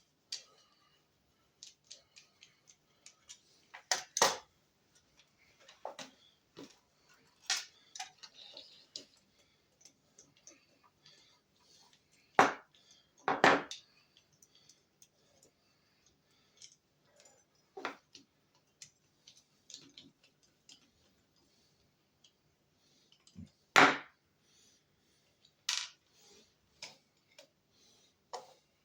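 Small parts and hand tools being handled while an instrument-cluster odometer motor is swapped: irregular light clicks and taps, with a few louder knocks now and then.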